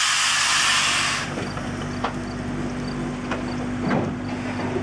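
Soo Line 1003 steam locomotive, driven on compressed air, exhausting with a loud hiss that cuts off about a second in. A steady low hum and a few sharp knocks follow as the engine rolls.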